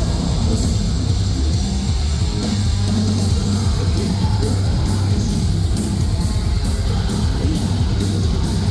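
Metalcore band playing loud and live: heavy distorted guitars, bass and drums, with cymbals struck in a steady beat from about three seconds in.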